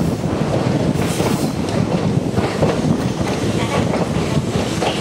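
Konan Railway Owani Line electric train running along the track, heard from inside the passenger car: a steady rumble of wheels on rail with clacks over the rail joints.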